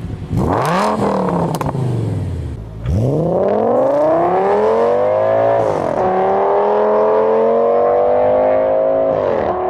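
Audi S6's V10 engine blipped once, then accelerating hard through the gears: the pitch climbs steadily and drops suddenly at an upshift about six seconds in, then climbs again and drops at another shift near the end.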